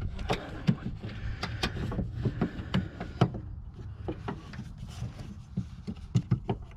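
Irregular small clicks and knocks of hands handling the O2 sensor's wiring and plastic connector clips in a cramped engine bay.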